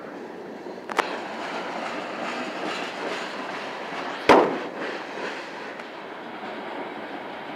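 Train rolling past with a steady rumble of wheels and cars, broken by two sharp bangs, one about a second in and a louder one a little after four seconds.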